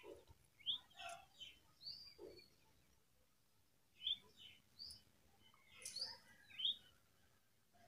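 Faint bird chirps in the background: a few short, high calls scattered through a quiet stretch.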